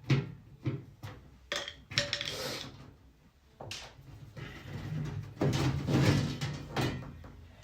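Knocks and clatter of washing-machine panels and parts being handled during disassembly: several separate sharp knocks in the first few seconds, then a longer stretch of rough handling noise.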